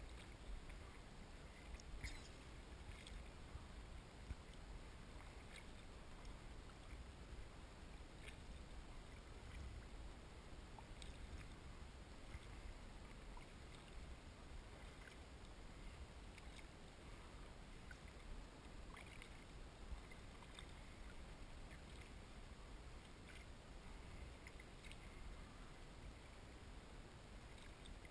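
Faint kayak paddling: quiet, irregular water splashes and drips from the paddle every second or two, over a low steady rumble.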